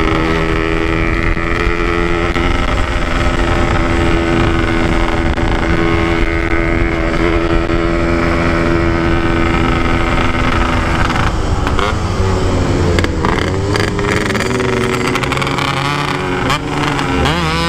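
Motorcycle engine running under load at steady revs, its pitch holding for about eleven seconds, then dipping and rising a few times as the throttle is eased and opened again.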